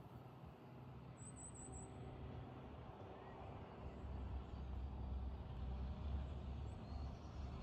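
Low engine rumble of a distant vehicle, growing louder about halfway through, with a brief high chirp early on.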